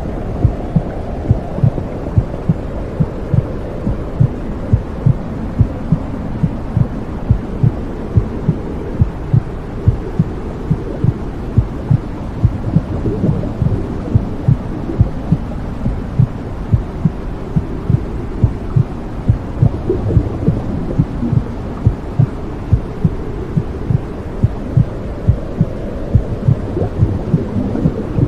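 Womb sounds: a muffled heartbeat beating at a steady, quick pace over a low, steady whooshing rush.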